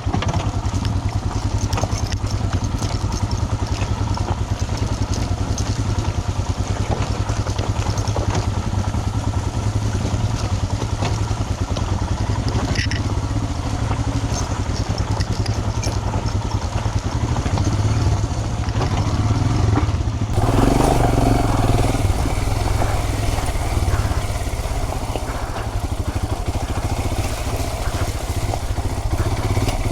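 Royal Enfield Himalayan single-cylinder engine running steadily as the motorcycle is ridden, with a deep, constant pulsing note. About twenty seconds in the sound changes abruptly and gets a little louder, with more rush and rumble.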